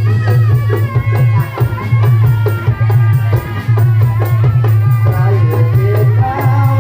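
Live Javanese folk music for a dawangan performance: drums and rattling percussion over a steady heavy bass, with a wavering melody on top.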